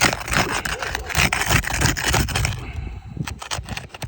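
Scraping and rubbing of a tool being worked under roof shingles to break their seal, for about two and a half seconds, then lighter scuffs and clicks.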